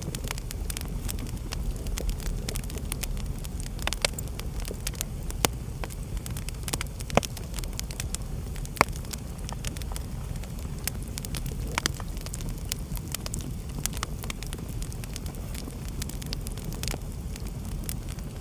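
Fire in a fireplace crackling with frequent sharp pops, a couple of louder snaps near the middle, over a steady low rumble.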